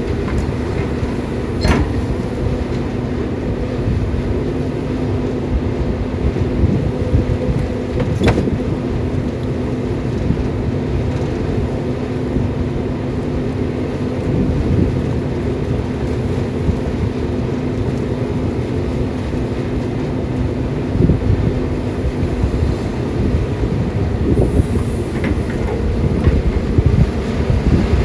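Caterpillar 320D excavator's six-cylinder diesel engine running with a steady drone, with two sharp knocks about two and eight seconds in.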